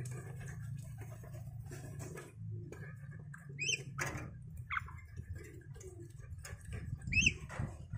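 A pet bird giving three short rising chirps among many small taps and scratches, over a steady low hum.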